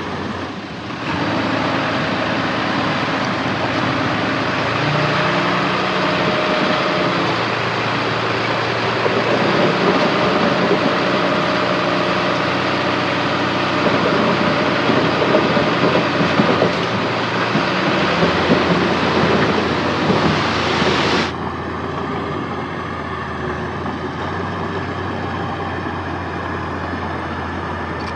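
Heavy diesel earthmoving machinery running hard: a loud, continuous engine noise whose pitch shifts up and down. About three-quarters of the way through it drops suddenly to a quieter, lower running.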